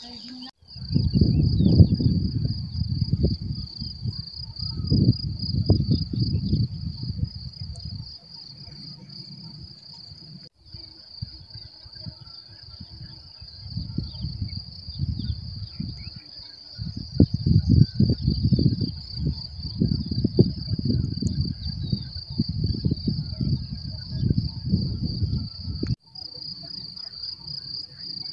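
Steady high-pitched chirring of insects such as crickets, with irregular low rumbling in the foreground that is louder than the insects. Both break off abruptly twice, about ten and twenty-six seconds in.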